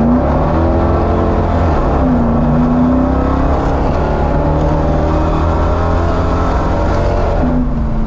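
Dodge Charger's engine through Cherry Bomb mufflers under hard acceleration, heard from inside the car: the exhaust note climbs in pitch, drops about two seconds in, climbs again and holds, then falls near the end. It runs a little rough, which the driver puts down to dirty spark plugs.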